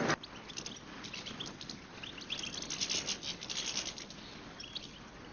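European goldfinches twittering faintly: a run of quick, short, high call notes, thickest through the middle.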